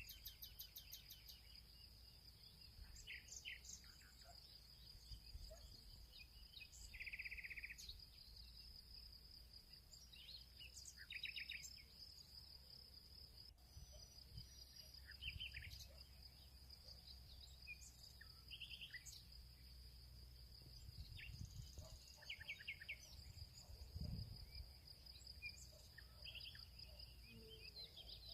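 Faint field ambience: a steady, high insect trilling, typical of crickets, runs throughout while small songbirds chirp and give short trills on and off, over a faint low rumble.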